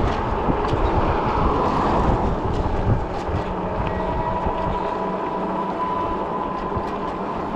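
Wind rushing over the microphone and rolling road noise from a moving Ecotric 20-inch fat-tire folding e-bike. A faint steady whine joins in about halfway through.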